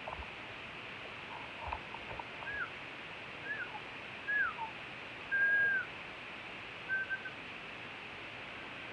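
A series of five short, clear whistles, most falling at the end, with the fourth held for about half a second. There are a couple of soft knocks about two seconds in.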